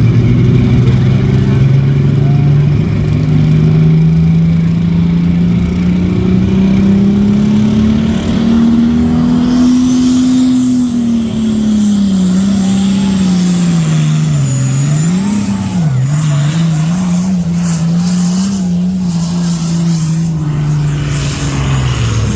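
A competition pulling tractor's engine running hard under load. Its pitch climbs steadily through the first half, then sags and wavers, and falls away near the end as the run finishes.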